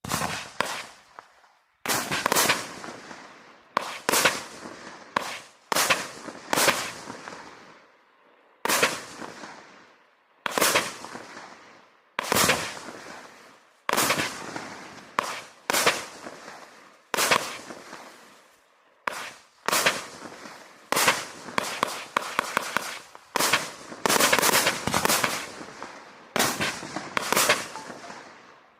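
Vivid Pyrotechnics 'Havoc' firework barrage firing shot after shot: sharp bangs, each with a fading tail, coming about every one to two seconds, and in quicker clusters for a stretch near the end.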